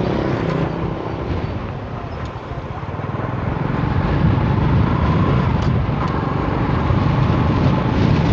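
Motorcycle running along a road, a steady low engine and road rumble, with strong wind making the bike hard to control.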